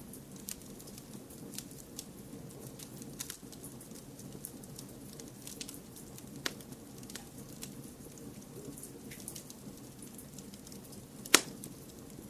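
Wood fire crackling in a fireplace: scattered sharp crackles and pops over a low, steady rush of flames. One loud pop comes near the end.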